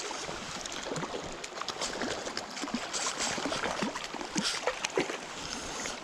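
River water flowing and splashing, with short irregular splashes through the whole stretch.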